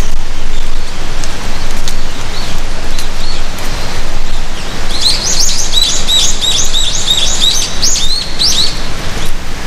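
A songbird sings a fast string of repeated high chirping notes, about three or four a second, starting about halfway through and stopping near the end, with a few scattered chirps before it. Under it runs a loud, steady rushing noise.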